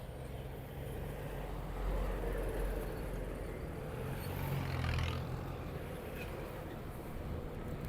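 Motorcycle engine running at low speed under steady road noise, swelling a little about two seconds in and again around five seconds in.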